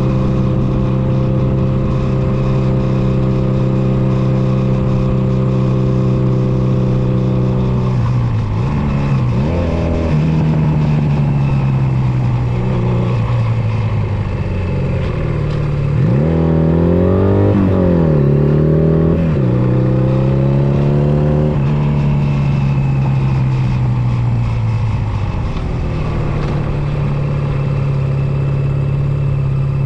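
Honda Nighthawk 250's air-cooled parallel-twin engine running on the road. It holds a steady note at first, then rises and drops in pitch several times through the middle as the rider accelerates, shifts and eases off, before settling to a steady note again near the end.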